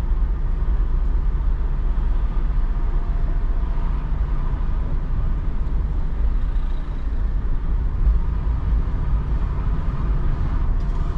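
Steady low rumble of a car being driven, heard from inside the cabin: engine and tyre noise on a wet road.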